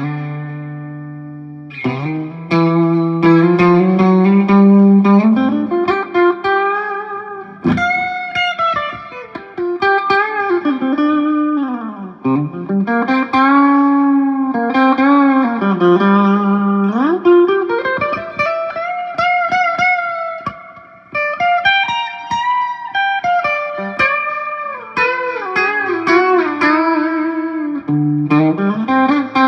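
1967 Gibson SG electric guitar with three P-90 pickups, played through a Marshall JCM 2000 amplifier. It opens on a held note of about two seconds, then plays a single-note lead line with string bends and vibrato.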